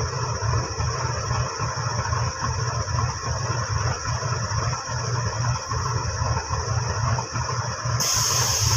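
Low rumble of a distant approaching diesel passenger train, with a steady high hiss over it; a broader hiss comes in abruptly near the end.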